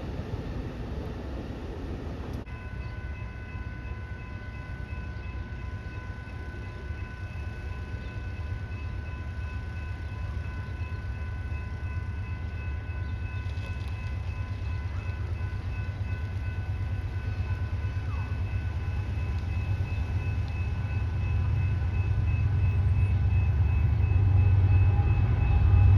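A train rumbling steadily, growing louder as it approaches. A faint, steady high whine of several tones joins in a couple of seconds in.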